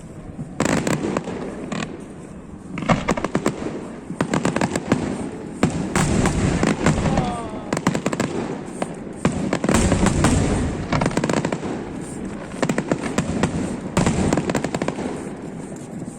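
Aerial fireworks display: repeated booming bursts mixed with clusters of rapid crackling, the loudest about 3, 5 and 10 seconds in.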